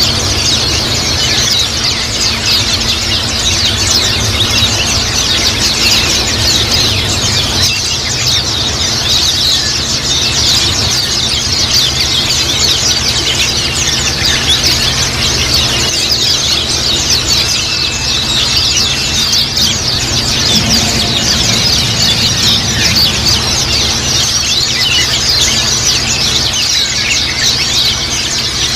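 A flock of white-eyes (pleci) chirping and twittering together, a dense unbroken chatter of short high calls over a steady low hum.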